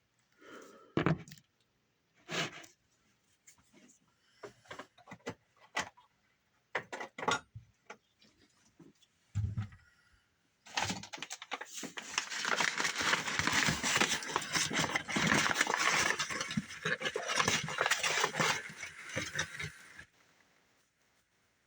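Kitchen handling: scattered knocks and clicks, then about nine seconds of continuous dense rattling, as of dry cereal being poured into a bowl, which stops suddenly near the end.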